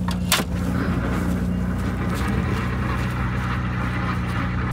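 Vehicle engine idling steadily, with one sharp click about a third of a second in.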